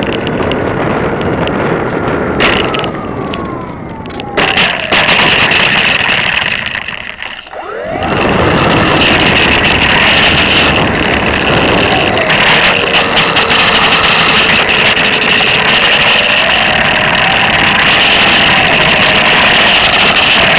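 Model Cessna RC airplane's motor and propeller heard close up from a micro camera on board, under loud wind rush. The motor's whine falls in pitch over the first few seconds and almost drops away about seven seconds in. It then comes back and steps up and down in pitch as the plane flies on.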